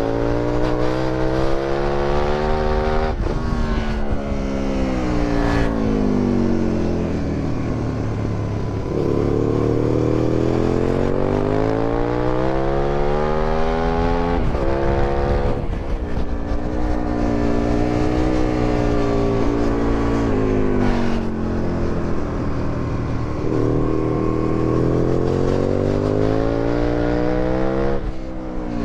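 2008 Aprilia Tuono 1000R's V-twin engine with an Akrapovic exhaust, revving hard through the gears and dropping back under braking. Its pitch climbs and falls several times, with a short sharp break at each gear change.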